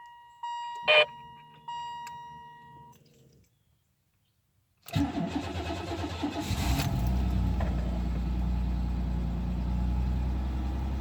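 Car warning chimes ring for the first few seconds, then after a short silence the 1992 Buick Regal Limited's V6 engine starts from cold, about five seconds in, and settles into a steady idle.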